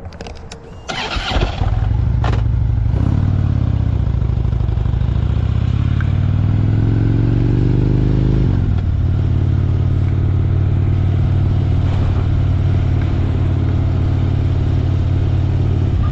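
Motorcycle engine starting about a second in, then pulling away: its pitch climbs for several seconds, drops at a gear change about halfway through, and then holds steady at a cruising speed.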